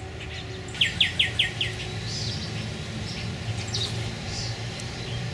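Songbird calling: a quick run of about five down-slurred chirps about a second in, then scattered fainter bird calls over a steady low background hum.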